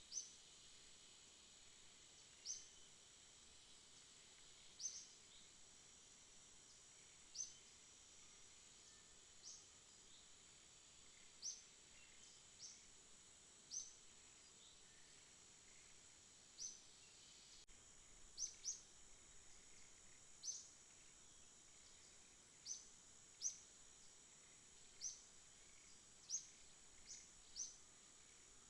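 Faint night ambience: a steady, high-pitched insect hum, with short, high chirps repeating at irregular intervals of one to three seconds.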